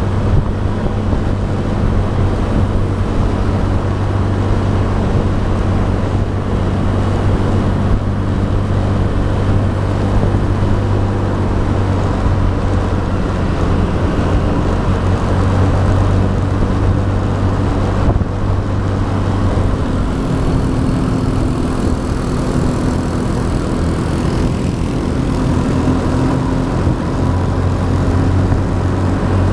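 Motorbike engine running steadily under way, with road and traffic noise. About two-thirds of the way through, the low engine note gives way to a higher one for several seconds, then drops back.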